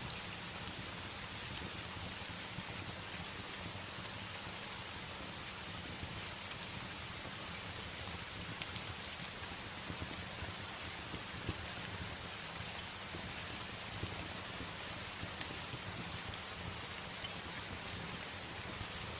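Steady rain beating on a window, with a few sharp crackles from a wood fire in a fireplace now and then.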